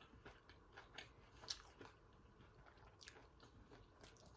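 Faint close-up chewing and biting of crispy fried food, with scattered short crunches and mouth clicks.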